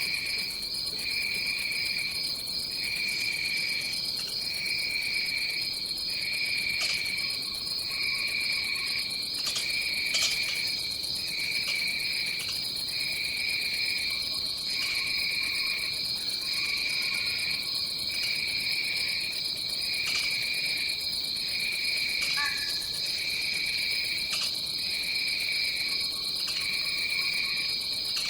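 Tropical rainforest insect chorus: a steady high-pitched buzz, with a lower pulsing trill that repeats about once a second.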